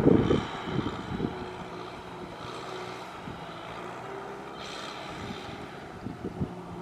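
Farm tractor engine running steadily under load while ploughing through mud and water, loud and rough for the first moment, then settling into an even drone.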